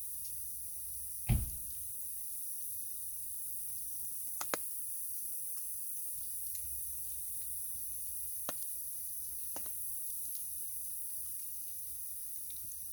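Wood fire crackling in a small camp stove, a few sharp pops over a steady hiss of rain; the loudest pop comes about a second in.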